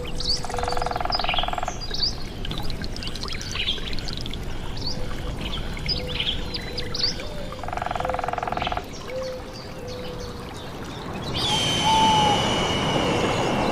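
Nature soundscape of many small birds chirping over a steady rush of flowing water, with two rapid, about one-second pulsing croaks from frogs. A high, steady insect buzz starts near the end.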